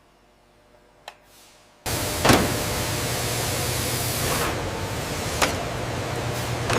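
Steady mechanical noise of running machinery, a loud even hiss over a low hum, that starts abruptly about two seconds in, with a few sharp clicks on top.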